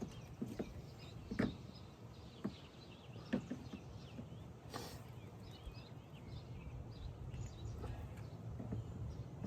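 A few scattered light clicks and knocks of hand tools working on parts in a car's engine bay, with small birds chirping in the background.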